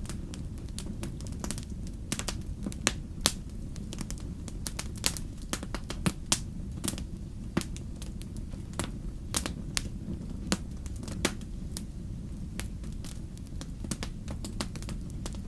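Wood fire in a fireplace crackling, with irregular sharp pops, sometimes several a second, over a steady low rumble of the flames.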